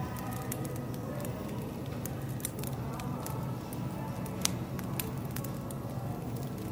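Wood fire crackling, with irregular sharp pops and one louder snap about four and a half seconds in, over a low steady background hum.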